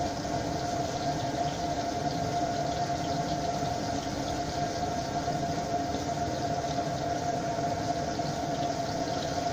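Pieces of crucian carp sizzling in oil in a frying pan over a gas burner, under a steady hum with a held tone.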